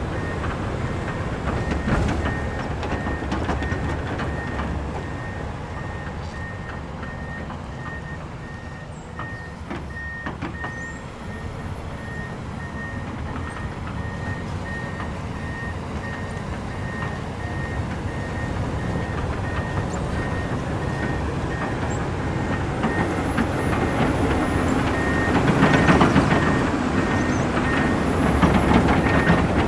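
Komatsu excavator's diesel engine and hydraulics working under a dense rumble, with its warning alarm beeping at an even pace throughout. The machine grows louder near the end as it works harder.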